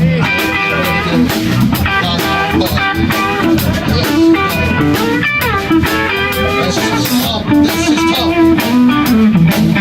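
Live band music with no singing: electric guitar playing over bass guitar and drums in a blues style.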